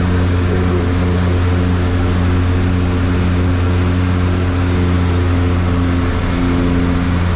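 Aircraft engines droning steadily, heard from inside the passenger cabin: a loud low hum with several steady tones above it that pulse gently.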